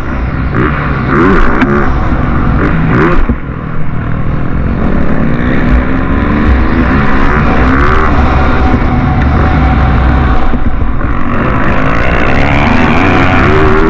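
Motocross bike engines revving hard, their pitch repeatedly climbing and dropping as the bikes work the track. There is a brief drop in loudness about three and a half seconds in.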